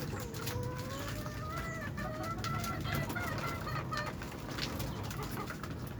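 Domestic birds calling: one long call that slowly rises in pitch over about four seconds, among scattered clicks and taps.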